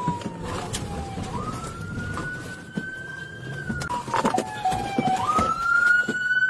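Police car siren on a slow wail, its pitch sliding down and back up every few seconds, with the pursuing cruiser's engine and road noise underneath.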